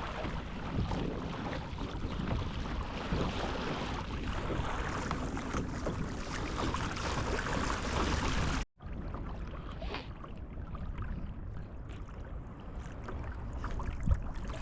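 Water rushing past a moving kayak's hull mixed with wind on the microphone, a steady noise. About two-thirds of the way through it cuts out for an instant and returns quieter and duller.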